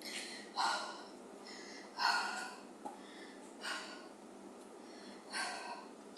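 A woman breathing hard as she recovers during a rest between workout sets: four heavy breaths about a second and a half apart.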